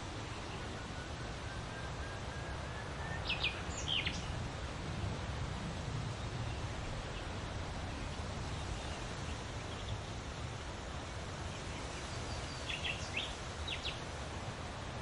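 Birds chirping in brief clusters of short, high notes, once about three seconds in and again near the end, with a faint thin whistle early on, over steady low background noise.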